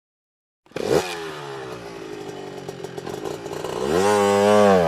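Single-cylinder 182MN engine of an NC300S enduro motorcycle starting about a second in and running, then revved up and let fall back near the end.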